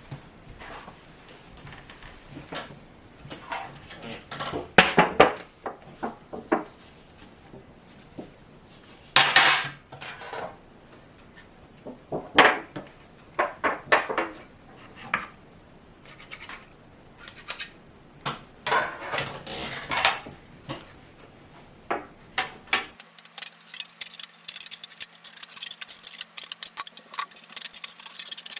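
Steel-wire and thin stainless-steel parts of a homemade fire grill clinking, rattling and scraping against each other as they are handled, in irregular knocks. Near the end the sound changes abruptly to a fast run of light ticks.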